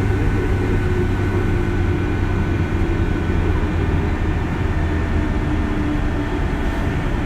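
Running sound of a JR West 201 series electric train heard from inside: a steady rumble of wheels on rail with a low drive hum and faint tones that drift slightly in pitch.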